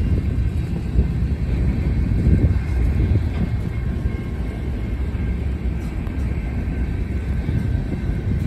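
Freight train of covered hopper cars rolling past, a steady rumble of steel wheels on the rails, with a faint steady high tone above it.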